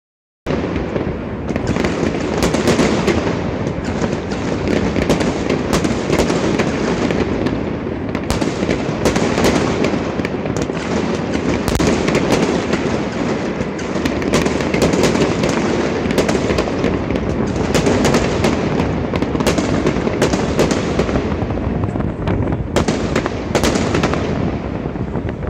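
Fireworks display going off from building rooftops in a dense, continuous barrage of bangs and crackling, loud throughout and thinning out near the end.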